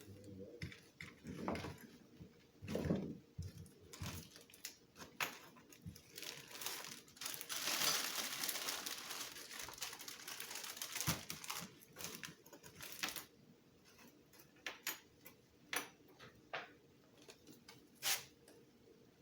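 Packaging being handled: rustling and crinkling, thickest for several seconds in the middle, with scattered sharp clicks and taps of small hard parts.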